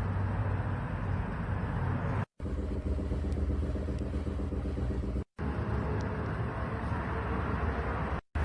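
Kia All New Carnival's engine running at a steady idle with a low hum, in short segments broken by abrupt cuts to silence about every three seconds.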